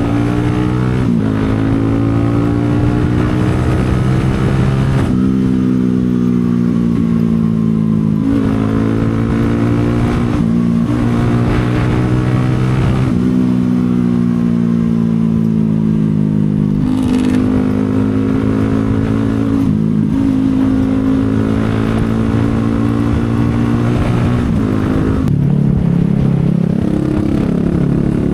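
CFMoto 250SR Lite's single-cylinder engine running under way, its pitch climbing and falling over and over. The pitch breaks several times where gears are shifted as the bike speeds up and slows down.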